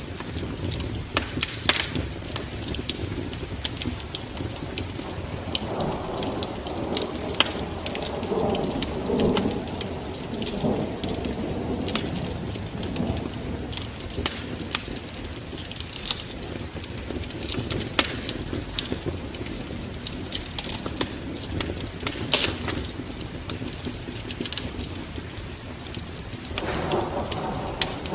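Wood fire crackling and popping in a fireplace, with rolls of thunder rumbling in, one about six seconds in and another starting near the end.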